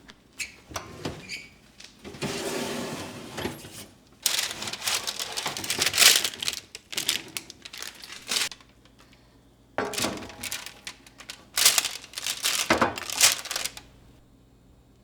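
Several spells of crinkling and rustling from something being handled, with a few sharp knocks among them, separated by short pauses.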